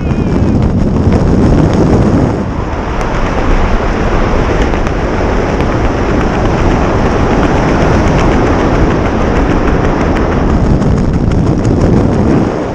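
Loud, steady wind rushing and buffeting over the camera microphone during the skydive.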